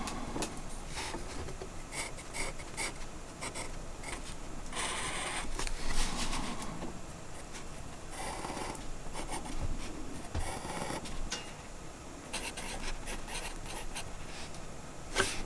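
Intermittent scraping and rubbing, with scattered small clicks and knocks in between.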